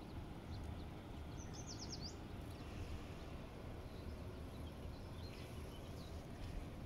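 Outdoor ambience: a steady low rumble, with a small bird giving a quick run of high, falling notes about a second and a half in and a few faint chirps later.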